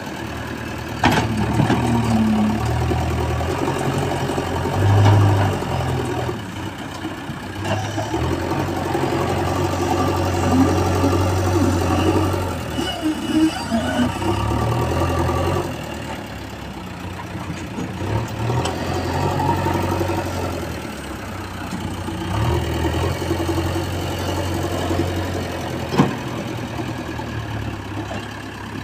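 JCB 3DX Extra backhoe loader's 74 hp diesel engine running at work, its sound swelling and easing as the load changes. There are sharp knocks about a second in and again near the end.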